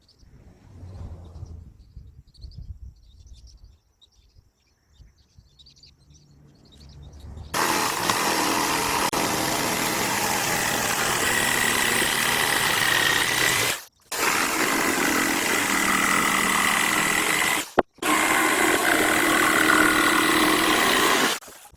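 A power tool runs at a steady speed with a constant whine, in three stretches of several seconds each with two brief stops between them. Before it starts there are a few seconds of quieter handling knocks.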